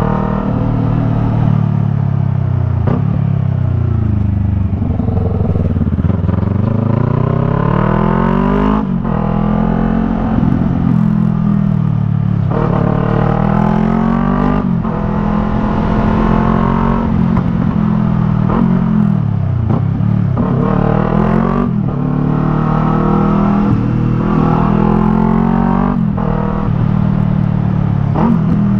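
Yamaha MT-03's parallel-twin engine through a Jeskap R3 Cup aftermarket exhaust, riding under way. The revs climb and then drop at several gear changes, each marked by a short break, and twice the bike slows right down before pulling away again.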